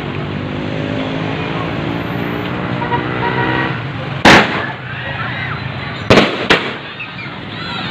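A vehicle engine runs for the first few seconds. A loud, sharp firework bang follows about four seconds in, then two more quick bangs about half a second apart near the end.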